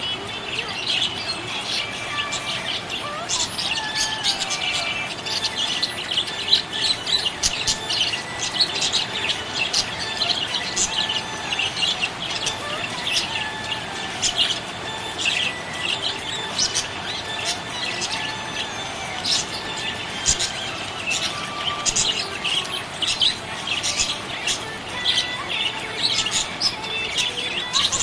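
Budgerigars chirping and chattering continuously: a dense run of short, high chirps with occasional gliding warbles.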